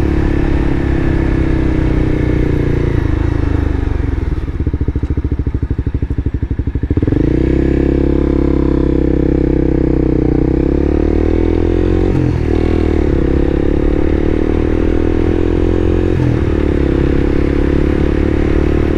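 Vehicle engine and exhaust running loud while driving. It eases off to a pulsing rumble for a few seconds, then pulls louder about seven seconds in, with short breaks in pitch later that sound like gear changes.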